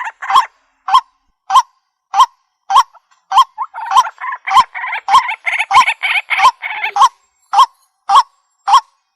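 Waterhen (jal murgi) calling: a rapid, regular series of short, sharp, upward-inflected notes, about one and a half to two a second, with denser overlapping calls through the middle.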